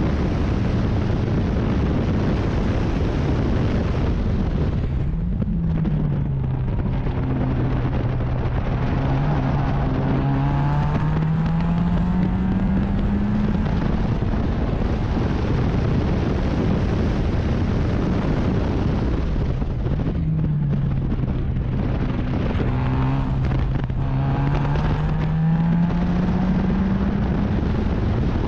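Race car engine heard over heavy wind and road rumble. Twice, about five seconds in and again about twenty seconds in, the engine note drops as the car slows for a corner. Each time it then climbs steadily for several seconds as the car accelerates hard out of the turn.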